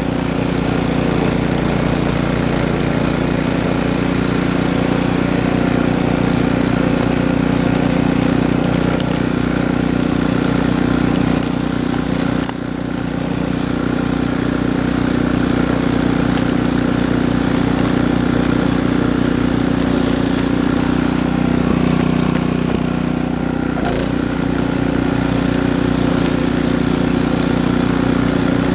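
Snowblower's small gasoline engine running steadily, with a brief dip in level about twelve seconds in.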